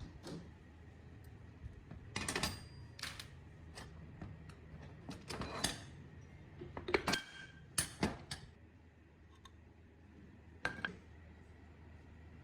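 Irregular metallic clinks, clicks and short scrapes of small metal parts and tools being handled, in clusters with pauses between, over a faint low hum.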